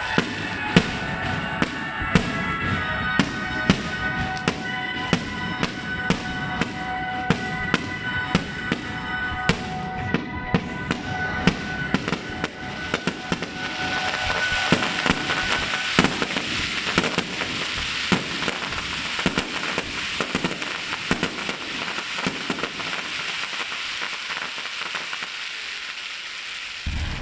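Aerial fireworks shells bursting in quick succession, a sharp bang about every half second, with music playing underneath through the first half. About halfway through, a dense crackling hiss of bursting sparks takes over and slowly fades near the end.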